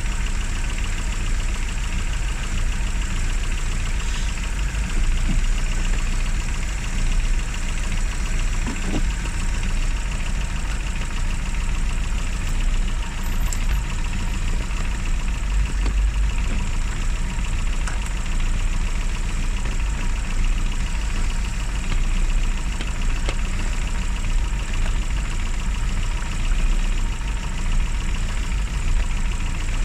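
Classic Mini's A-series four-cylinder engine idling steadily, left running after sitting unused for three months.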